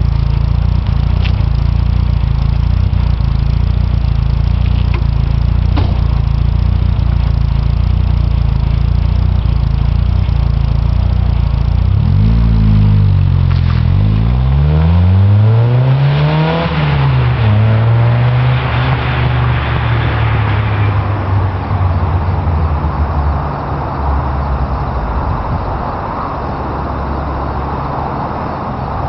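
Mk2 Volkswagen Golf GTI's 8-valve four-cylinder engine heard through a 2.25-inch cat-back exhaust with a Dynomax Super Turbo muffler. It idles steadily for about twelve seconds, then the revs rise and fall a few times before settling into a steadier, higher note.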